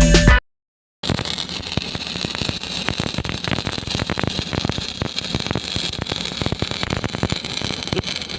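Stick (arc) welding arc crackling steadily, a dense sputter of fine clicks over a hiss, starting about a second in.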